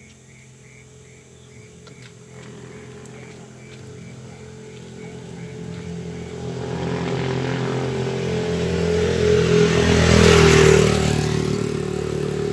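A motor vehicle approaching and passing close by. Its engine and tyre noise build steadily to a peak about ten seconds in, then fade. Faint insect chirps repeat at the start, about three a second.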